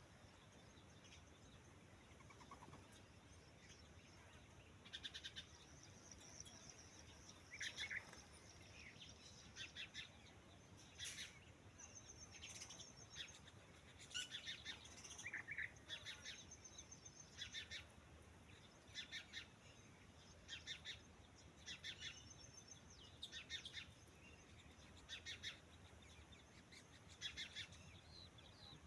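Faint bird calls: short, rapid chirping phrases repeated every second or two, starting about five seconds in, over a low background hiss.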